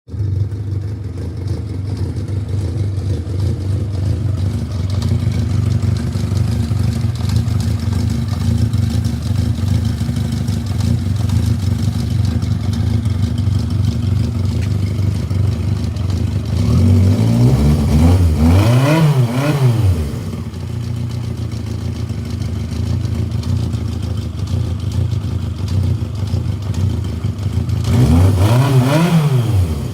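Yamaha XJ750's air-cooled inline-four engine idling steadily, then revved up and let fall back twice, once about two-thirds of the way through and again near the end. It carries the engine knock that the owner is showing.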